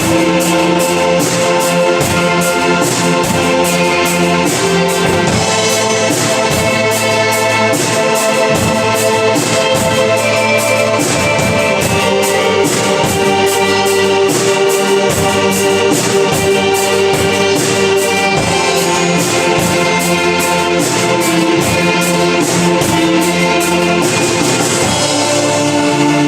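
Live band music: sustained chords over a steady, regular beat. The high beat strokes drop out near the end.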